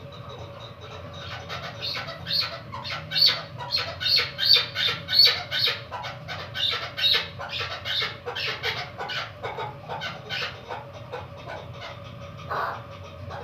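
Female chukar partridge (chakor) calling: a fast run of short, repeated chuk notes, about three a second, loudest in the middle and tapering off toward the end.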